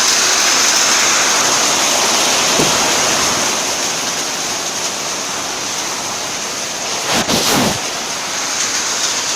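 Heavy rain and strong wind of a summer thunderstorm, a steady rush of noise, with a brief louder burst about seven seconds in.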